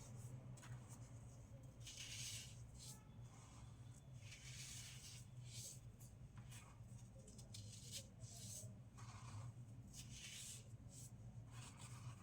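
Fresh baking soda being crunched: a dozen or so faint, soft, scratchy crunches at irregular intervals, about one a second, over a steady low hum.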